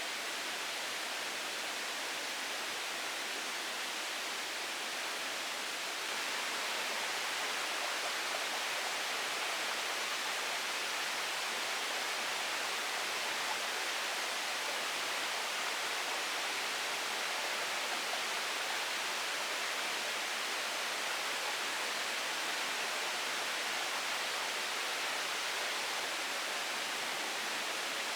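Steady rushing noise of water, with no distinct events, a little louder from about six seconds in.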